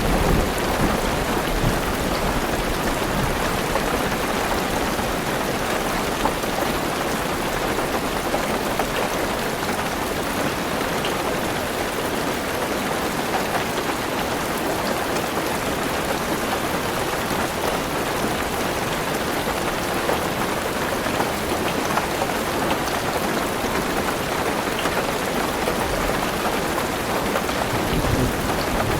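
Heavy rain falling on a car's roof and windows: a steady, dense patter with scattered sharper drops. A brief low rumble swells near the start and again near the end.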